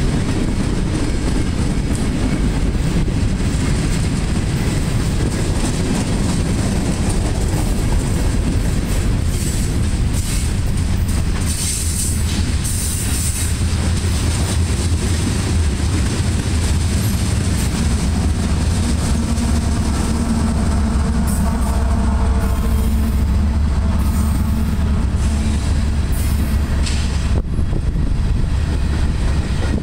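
Freight train cars rolling past with a steady, loud rumble of wheels on the rails. In the second half a mid-train diesel locomotive passes, adding a steady engine drone.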